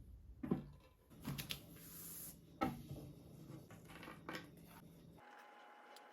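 Kitchen handling sounds: a few sharp knocks and clinks of utensils and dishes with a brief hiss between them. About five seconds in, these give way to a faint steady hum.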